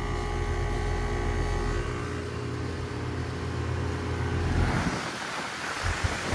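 2018 Goodman GSZ14 2-ton heat pump outdoor unit running, a steady compressor and fan hum. About four and a half seconds in, the hum drops back and a broad rushing noise rises.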